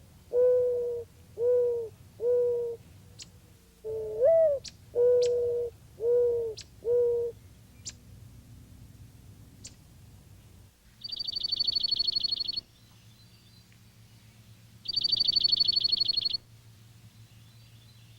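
Mourning dove cooing its song twice, a rising first coo followed by three lower, shorter coos. A few faint chips follow, then two dry, high, rapid trills from a small songbird in the second half.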